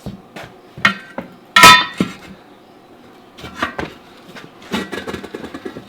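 Metal clanks from tire work on a steel wheel rim: a few sharp knocks, the loudest a ringing metallic strike about one and a half seconds in, then a run of quick light clicks and rattles near the end.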